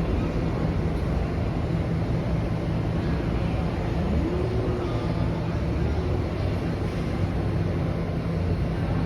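New York City subway train running in the station: a steady heavy rumble, with a pitched whine that rises about four seconds in, holds briefly and fades.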